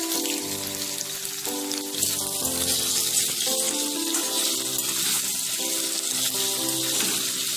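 Paneer cubes frying in hot spiced oil in a kadai: a steady sizzle that grows louder about two seconds in as the cubes settle in the oil. Background music with slow held notes plays over it.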